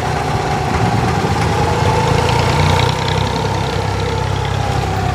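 Boat engine running steadily, a low hum with a steady whine above it.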